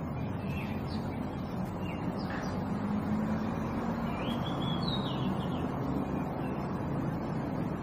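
Great kiskadee calling a few times, short calls with the longest run a little past halfway, over a steady low rumble.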